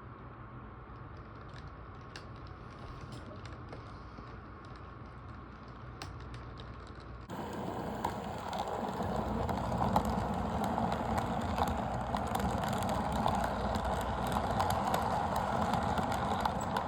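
Model diesel locomotive running on a layout: a steady mechanical running noise from the motor and gearing, with scattered sharp clicks of the wheels over the track. About seven seconds in the sound jumps suddenly louder and fuller.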